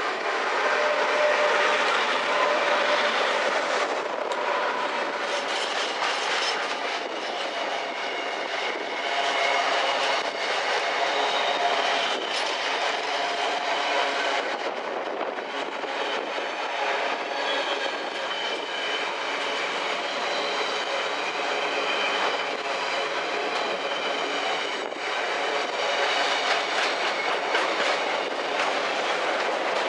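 A long freight train passes, its wagons' wheels clattering over the rail joints without a break. Faint ringing tones from the wheels and rails run through the clatter.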